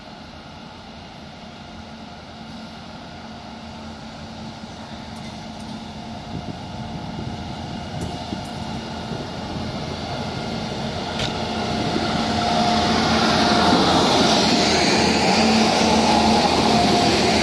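Indian Railways train approaching: a steady rumble with a low mechanical hum that grows steadily louder and is loudest in the last few seconds as it draws close.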